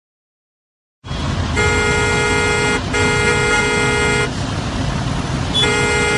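Car horn honking over steady street traffic noise: two long honks of about a second each, back to back, then a third starting near the end, all on one steady pitch. About the first second is silent before the traffic noise cuts in.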